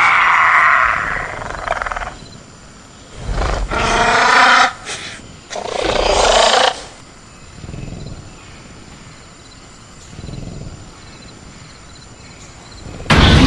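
Velociraptor sound-effect calls, screeching and roaring in separate bursts: one fades out about a second and a half in, two more come close together mid-way, and another starts loudly just before the end.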